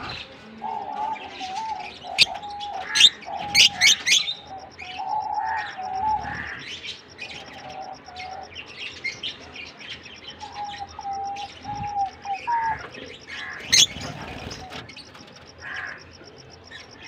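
Fischer's and blue masked lovebirds chirping, with several sharp, shrill calls about two seconds in, a cluster around three to four seconds, and another near the end.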